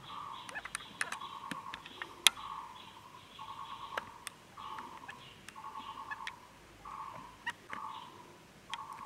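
A bird calling over and over, a short trilled note about once a second. Scattered sharp clicks sound through it, the loudest a little over two seconds in.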